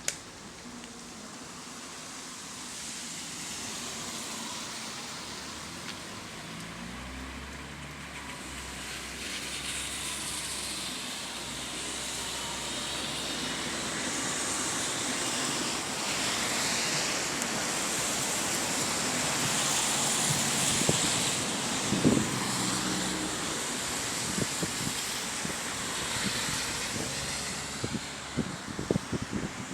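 Road traffic noise, a steady rush that swells slowly as vehicles pass, with a few sharp knocks near the end.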